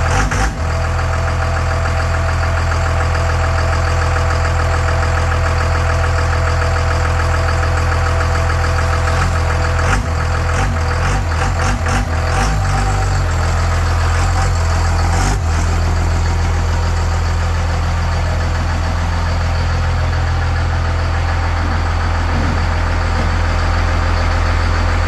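A 12-valve Cummins 5.9 L inline-six diesel idling steadily through a custom-built exhaust. There are a few brief knocks and short dips in the engine sound around the middle.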